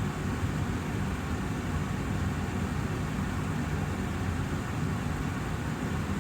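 Austin Air HealthMate air purifier's fan running steadily: an even, deep rush of air.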